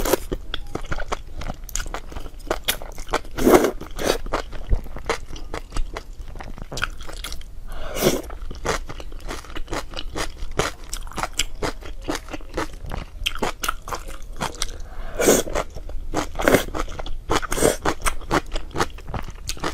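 A person chewing crunchy food close to the microphone: a steady stream of crisp crunches, with a few louder, fuller bites.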